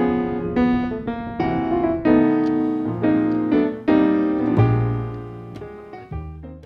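Background music: piano chords struck every half second or so, each note ringing and fading, ending abruptly.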